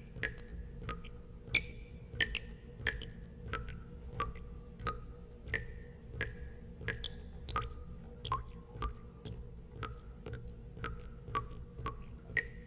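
Water drops falling into water one after another, about two a second at uneven spacing. Each drop makes a sharp plink with a short ringing tone that dips in pitch. A steady low hum runs underneath.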